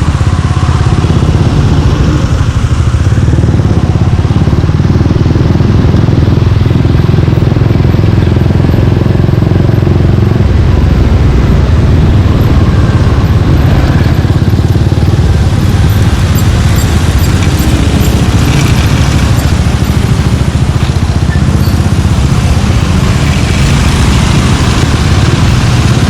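Suzuki Gixxer 155's single-cylinder four-stroke engine running through an aftermarket Yoshimura-style exhaust, a loud, steady low exhaust note.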